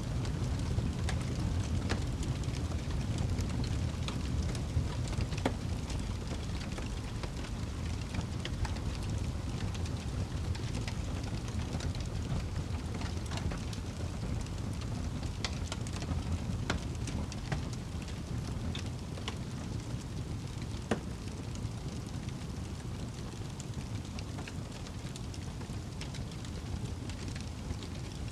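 Fire crackling in a fireplace: a steady low rumble of flames with sharp pops and snaps scattered irregularly throughout.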